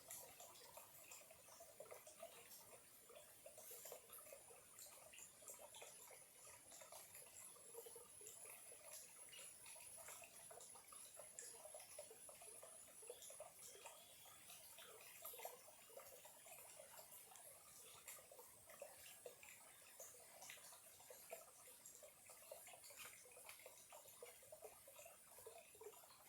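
Faint trickle of a small clear-water stream: many small, irregular plinks and bubbles over a light hiss. A thin, steady high whine sits above it.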